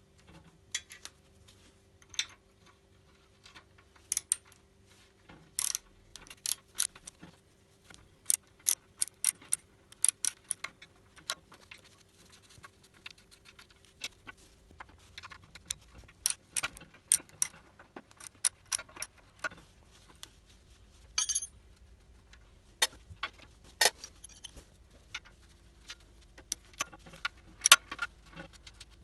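Irregular sharp metallic clinks and taps, a few ringing briefly, as metal parts and tools are handled during work on a cast iron bench.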